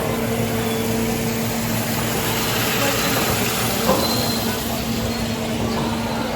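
A motor or engine running steadily, a constant pitched hum over a wash of background noise.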